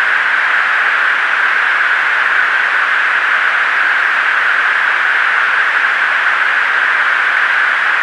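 Steady hiss of an aircraft's radio and intercom channel, an even, unbroken static with no speech over it.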